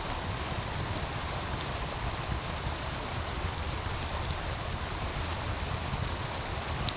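Wood fire crackling with faint scattered pops over the steady rush of a meltwater stream; one sharper crack near the end.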